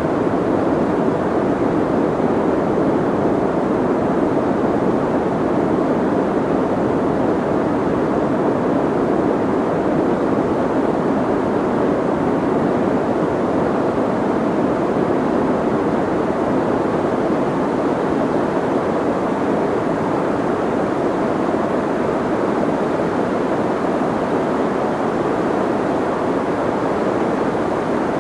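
Soft white noise: a steady, even hiss with most of its energy in the low and middle range and little treble, so it sounds dull rather than sharp.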